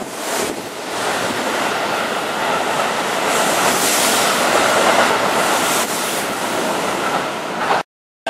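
Keihan 3000-series limited express train running past close by along a station platform: a steady rushing of wheels on rail and moving air, which cuts off abruptly near the end.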